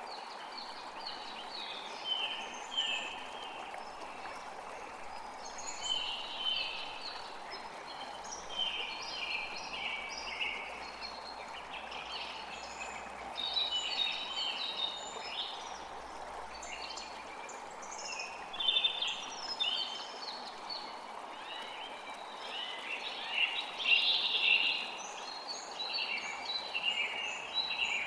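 Many small birds chirping and twittering in quick, repeated high notes over a steady rush of running water.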